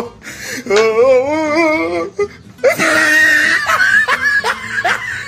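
A young child's high voice: a long wavering whine, then a rough strained cry, then a quick run of short laughing sounds, about four a second.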